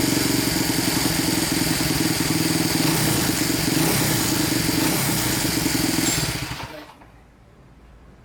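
Honda Monkey's small four-stroke single-cylinder engine running steadily, then switched off about six seconds in and dying away. It still carries the abnormal noise that the owner traces to the crank bearing's outer race working against the crankcase, which calls for a full engine teardown.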